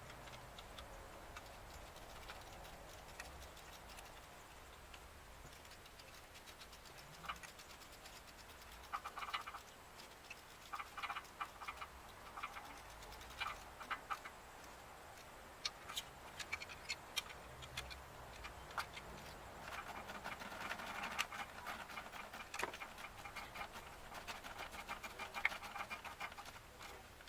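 Scattered light clicks, ticks and scrapes of hand tools and parts being handled during engine reassembly, coming in short flurries, busiest near the middle and towards the end.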